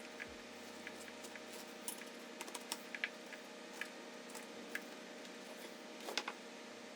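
Scattered light clicks and taps, about fifteen irregularly spaced, the loudest about three seconds in and again near the end, over a faint steady hum.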